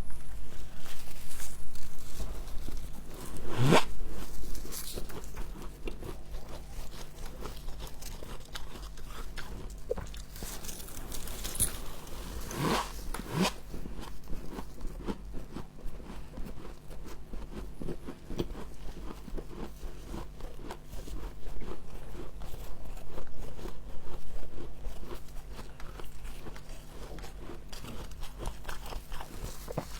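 Close-up crunching and chewing of frost in the mouth: dense crackling throughout, with two sharper, louder bites about four and thirteen seconds in. A steady low hum runs underneath.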